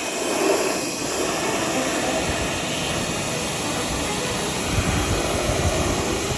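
Pressure washer running and spraying, a steady loud hiss of water jet with motor noise underneath.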